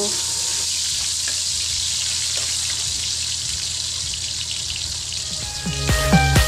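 Sliced onions sizzling in hot oil in a wok, a steady frying hiss. Near the end, music with a steady beat comes in over it.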